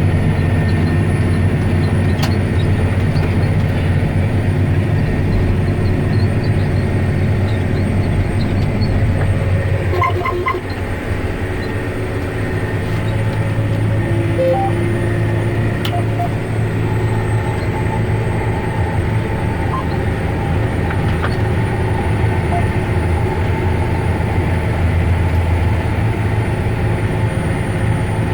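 John Deere 9530 tractor's six-cylinder diesel engine running steadily under load while pulling a disc harrow, a deep continuous drone that eases off briefly about a third of the way in and then picks back up.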